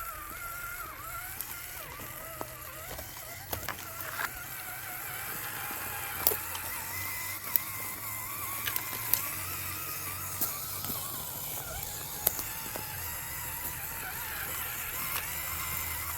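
Electric motor and gears of an RC scale crawler whining, the pitch wandering up and down with the throttle, with sharp clicks and knocks from the tyres and chassis on rough ground.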